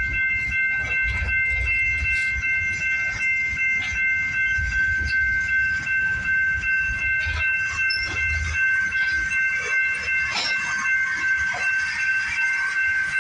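Train at close range: rail cars rumbling with scattered knocks and clanks, under a steady high-pitched tone that holds throughout.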